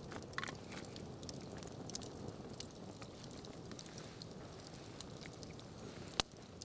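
Wood campfire crackling with scattered small snaps, and one sharp, loud pop about six seconds in.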